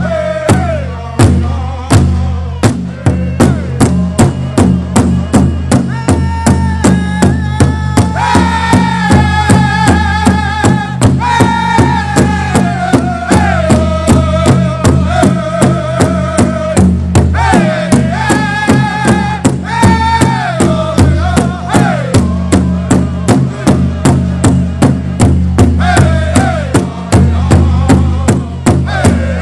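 Powwow drum group singing: an even drumbeat of about three strokes a second on the big drum, under high-pitched voices singing phrases that fall in pitch.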